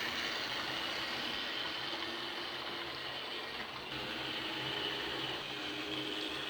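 OO gauge model diesel locomotive with no sound chip running round the track: the steady whir of its small electric motor and gears, with the rattle of wheels on the rails and a faint high whine.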